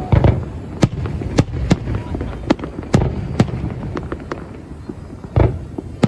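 New Year's Eve fireworks going off all around: sharp cracks and pops at irregular intervals over a continuous low rumble of many distant bursts, with a heavier boom just after the start and another about five and a half seconds in.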